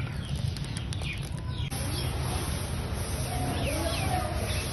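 Small birds chirping a few times over a steady low rumble.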